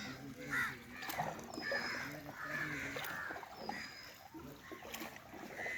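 Crows cawing in a series of short harsh calls.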